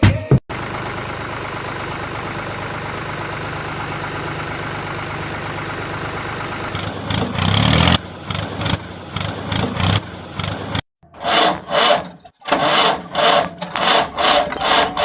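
A small engine running steadily. From about seven seconds in it gives way to a rhythmic pulsing, roughly two beats a second, as if the machine is working under load.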